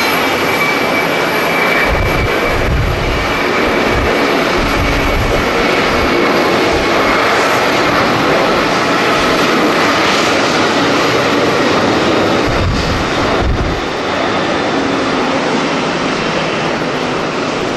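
Jet airliner engines running, a loud steady rush of noise with a faint high whine early on. Low buffeting thumps from strong wind hitting the microphone come twice, a few seconds in and again after about twelve seconds.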